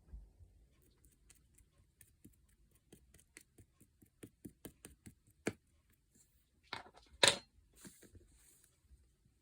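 Red fluffy slime being squeezed and poked, giving a run of small sticky clicks about three to four a second, then a few louder pops and crackles about seven seconds in.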